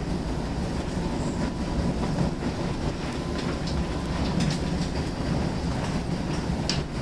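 Cabin noise inside a Solaris Urbino 8.9 LE battery-electric bus: a steady low rumble with light rattles and a few short clicks, and a faint steady tone in the first half.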